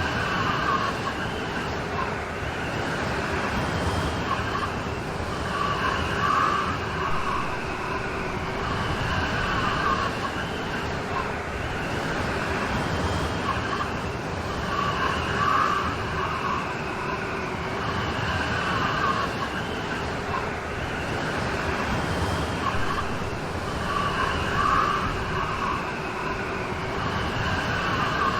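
Steady rain storm, a continuous hiss of heavy rain that swells a little about every nine seconds.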